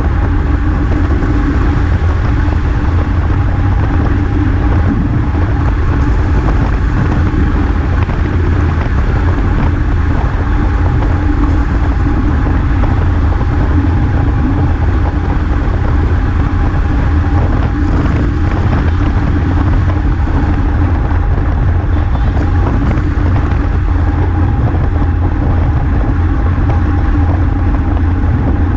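Wind rushing over a bicycle-mounted GoPro's microphone while riding at race speed: a steady, loud low rumble with a faint steady hum above it.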